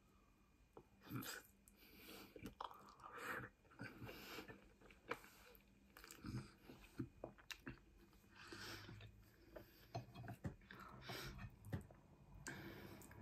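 Quiet chewing of a mouthful of fried rice, with many short soft clicks and smacks from the mouth and a wooden fork against the plate.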